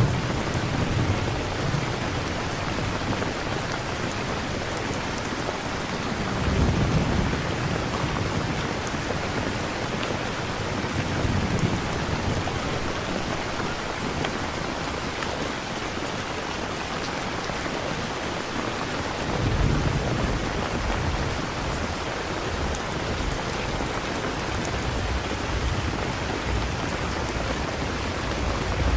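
Steady rain pouring, a constant even hiss, with low rolls of thunder rumbling under it three times.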